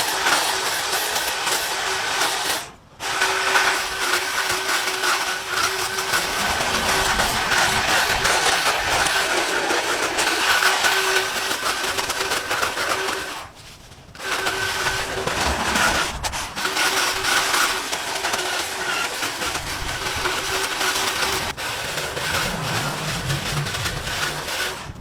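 Lawn mower engine running steadily under load, with a few short breaks.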